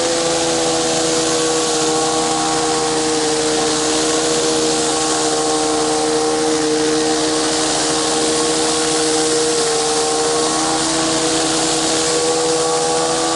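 Gas-engine pressure washer running steadily under load, with the hiss of high-pressure water spraying from a Briggs & Stratton surface cleaner onto concrete.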